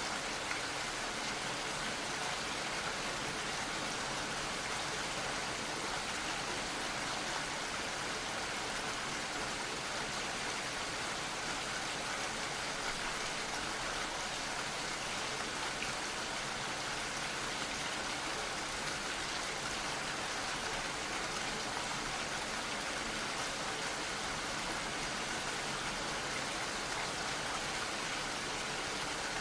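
Gentle rain falling steadily, an even hiss of drops with no breaks.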